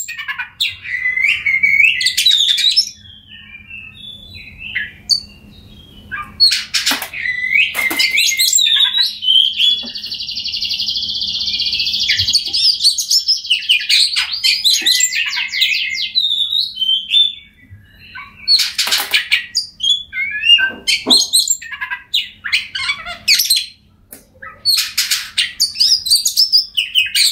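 Oriental magpie-robin singing a varied song of whistled phrases and chirps, broken by short pauses, with a long fast trill about ten seconds in.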